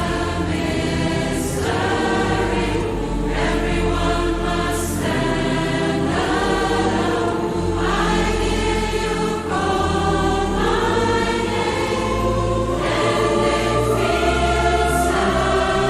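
Background music: a choir singing in a gospel style over sustained low bass notes.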